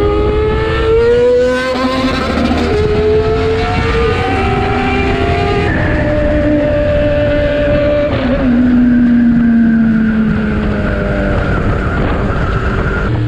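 Yamaha MT-10 inline-four motorcycle engine pulling hard through the gears, its note climbing and dropping at each shift, then falling away as the bike slows, over wind rush.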